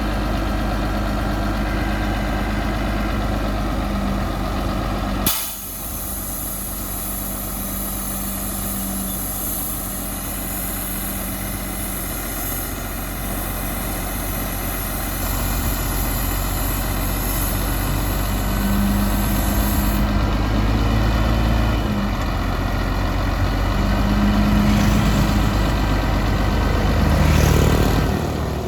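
Heavy bulldozer's diesel engine running under changing load, with an abrupt change in the sound about five seconds in.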